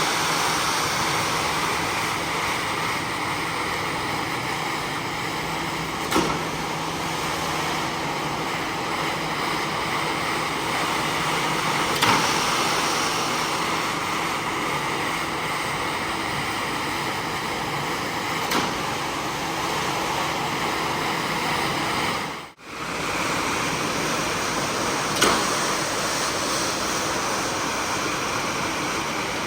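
A carpet-cleaning machine running steadily with a hiss, with a short sharp click about every six seconds and a brief drop-out a few seconds before the end.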